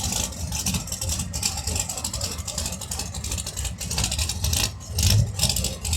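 A competition vehicle's engine running at the starting line, staged and waiting to launch, with a steady low rumble and a rough crackle over it.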